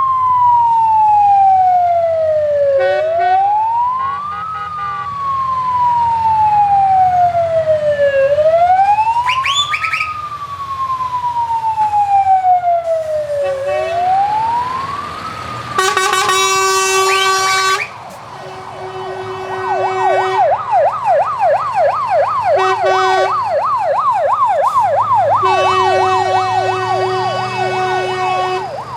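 Electronic siren sounding a slow wail, rising quickly and falling slowly about every four seconds. A little past the middle it switches to a fast yelp of about three cycles a second. Several horn blasts of a few seconds each come in over it, with a truck engine running low underneath.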